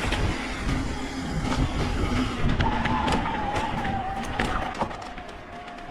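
Mountain bike ridden fast down a dirt trail: a steady rumble of tyres and wind, sharp rattling clicks from the bike over rough ground, and a whine that wavers in pitch, easing off near the end.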